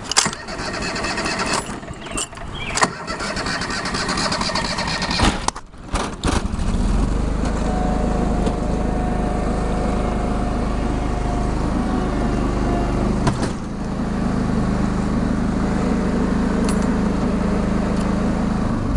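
Garden tractor engine of a John Deere 425 starting about six seconds in and then running steadily, with a single knock about halfway. Before it starts there is a rushing noise and a few clunks.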